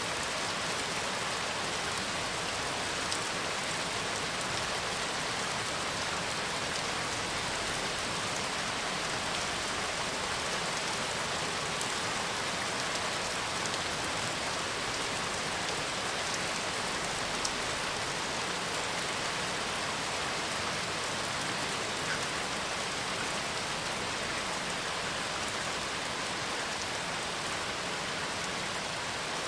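Steady heavy rain with fine drop patter.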